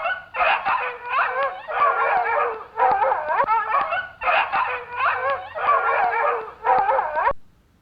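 A dog barking and yelping in a run of bursts with short breaks, its pitch wavering up and down. It stops abruptly about seven seconds in.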